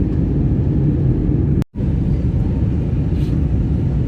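Steady low rumble of airliner cabin noise from the engines and airflow. It cuts out abruptly for a split second about one and a half seconds in, then carries on the same.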